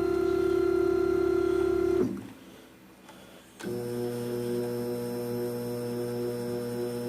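Stepper motors of a CNC-converted X2 mini mill whining steadily as they drive an axis at constant speed. The whine stops about two seconds in, and a second move starts about a second and a half later with a lower, different-pitched whine.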